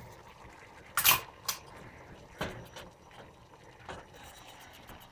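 A few separate knocks and clunks, as of a door and a pot being handled. The loudest comes about a second in, with softer ones after it.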